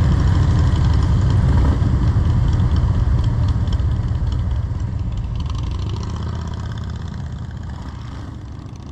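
Motorcycle engine running steadily, a low rumble that fades out gradually over the second half.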